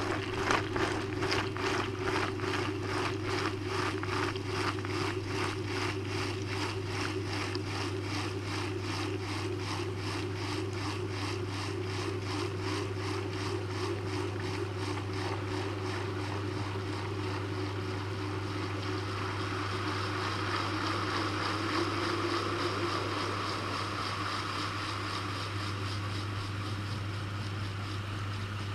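Maytag washing machine running mid-cycle, heard from inside its tub: rushing, sloshing water over a steady low hum, with a fast regular pulsing that gradually fades.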